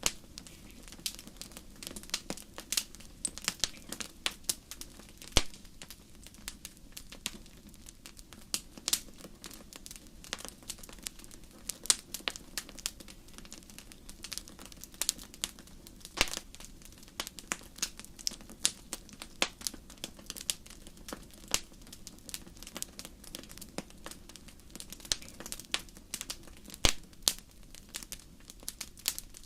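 Wood fire crackling in a fireplace: irregular sharp snaps and pops, several a second with an occasional louder one, over a steady low background.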